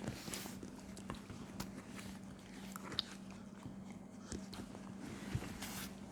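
Faint eating sounds: chewing, with scattered small clicks of utensils against dishes, over a steady low hum.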